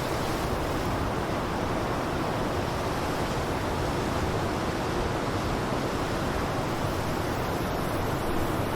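Blizzard wind blowing steadily, a dense, even rush of noise with no gusts or breaks.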